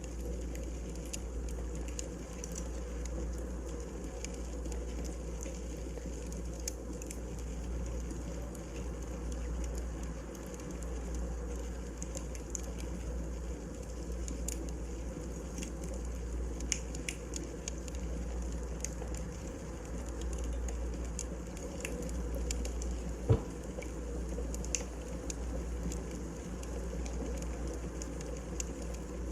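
Wood fire burning in a fireplace: a steady low rumble with scattered small crackles and one louder pop about 23 seconds in.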